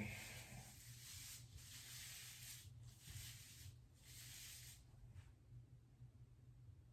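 Faint rubbing of hands working hair dye through hair, in several strokes over the first five seconds.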